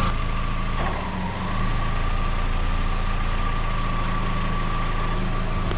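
2004 VW Golf's 2.0-litre four-cylinder engine idling on a newly fitted accessory belt. About a second in, the running sound dips briefly and then settles again as the air-conditioning compressor kicks in, with no noise from the belt.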